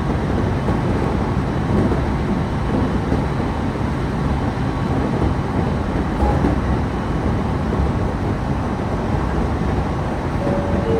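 Electric train running along the line, heard from inside the carriage: a steady rumble of wheels on rails. Two short steady tones come in near the end.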